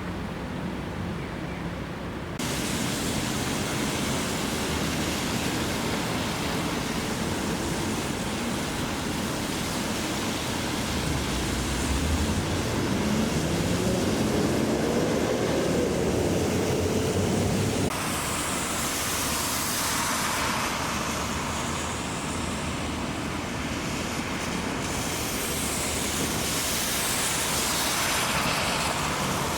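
Vehicles passing on a rain-soaked road: a steady hiss of tyres through water, with an engine climbing in pitch about halfway through. The sound changes abruptly twice.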